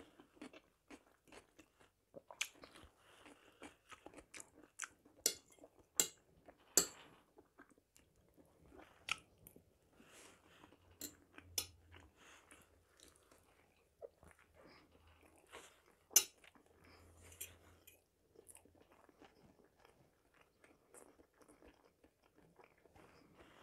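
Close-miked chewing of a meal of boiled potatoes and marinated herring with onion: soft wet chewing broken by frequent sharp mouth clicks and smacks, a few of them much louder than the rest.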